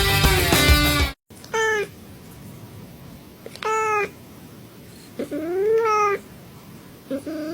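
Music cuts off about a second in, then a cat meows three times, the third meow longer, rising then falling in pitch; music starts again near the end.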